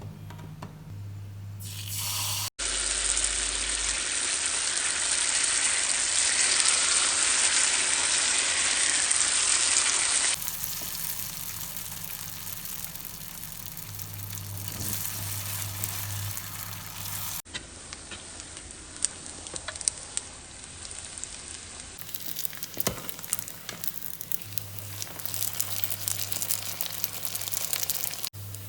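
Food frying in hot oil: a steady sizzle with scattered crackles and pops. It breaks off and resumes abruptly several times, is loudest in the first third and crackles most near the end.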